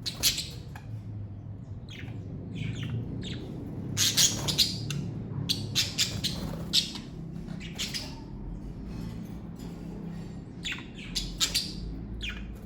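Pet budgerigars chirping and squawking in short, scattered calls, busiest in the middle and again near the end, over a steady low hum.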